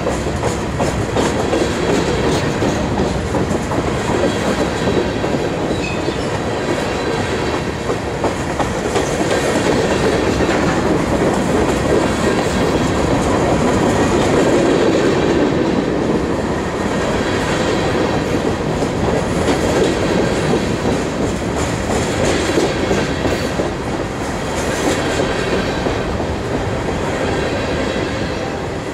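Freight train of covered hopper cars rolling past close by: a steady rumble of steel wheels on the rails with a continuous run of clicks from the wheels and trucks.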